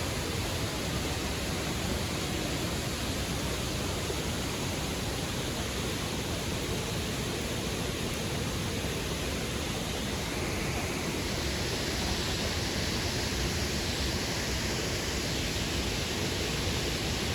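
Steady rush of the Triberg waterfalls' falling water, an even noise that turns brighter and more hissy about eleven seconds in.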